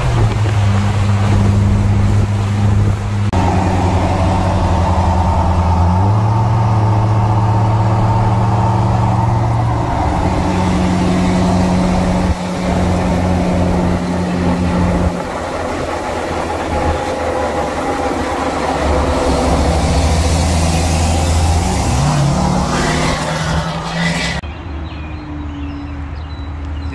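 Vehicle engine and road noise heard while driving: a steady low engine hum whose pitch holds for a few seconds at a time, then shifts up or down as the speed changes, with a rising glide a little before the end.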